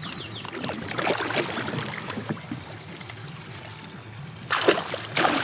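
Water splashing as a hooked muskie thrashes at the surface beside a kayak during the fight, with a loud burst of splashing near the end.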